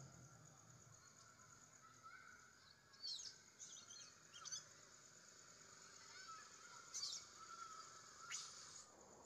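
Faint birdsong: a few short, sharp high chirps scattered through, over fainter warbling calls and a steady high hiss.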